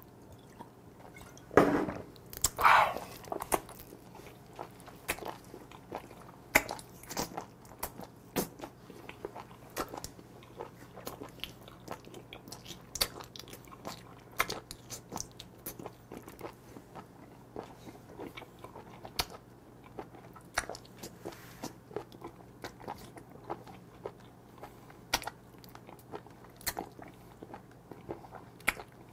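Close-up chewing and slurping of a whole raw live small octopus, with irregular wet smacks and clicks of the mouth. About two seconds in come a couple of louder gulps.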